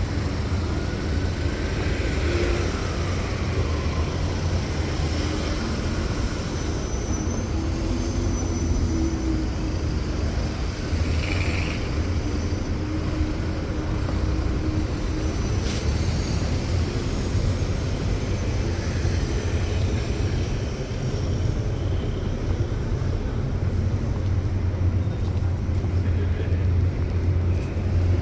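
Steady city street traffic: the continuous low rumble of passing cars and other road vehicles, with a single sharp click a little past halfway.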